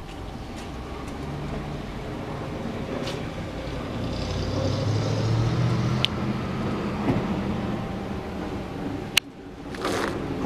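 A motor running steadily with a low hum, growing a little louder midway, then cutting off after a sharp click about nine seconds in.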